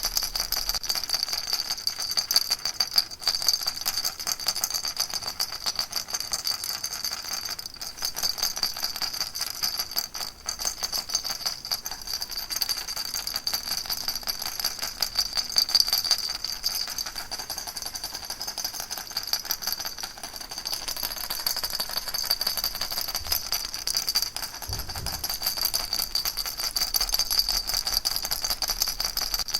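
Baby rattle shaken without pause: a fast, high, even rattling.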